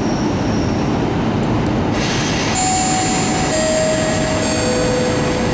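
Train noise from a passenger train moving at the platform, steady throughout, with a hiss joining about two seconds in. Over it a station public-address chime plays three falling notes, each about a second long, the signal that an announcement follows.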